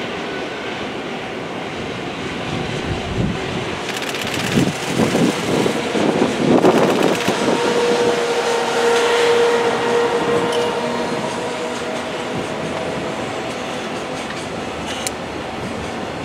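JR Freight EF510 electric locomotive hauling a container freight train past, with a steady rumble of wheels on rail. It is loudest as the locomotive goes by about halfway through, when a steady whine rises out of the rumble. The container wagons then keep rolling past.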